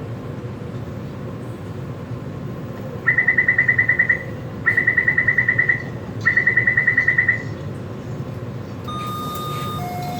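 Electronic warning beeper on a Taipei Metro train sounding three bursts of rapid beeps, each about a second long, over the steady rumble of the train. Near the end, a steady two-tone electronic chime starts alternating.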